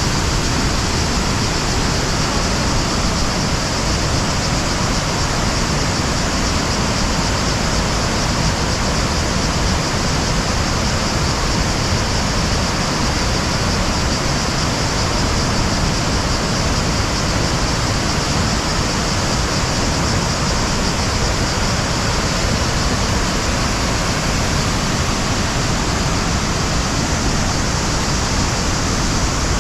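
Krka waterfalls: a steady, loud rush of falling water, even and unbroken throughout.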